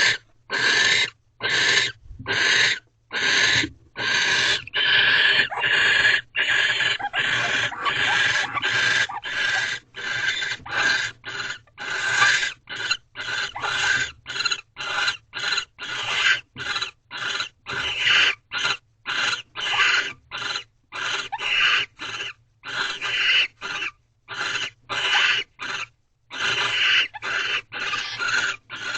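Barn owls giving repeated rasping, hissing calls during courtship, one after another with short gaps. In the middle the calls run longer and almost together; later they come as shorter calls about two a second.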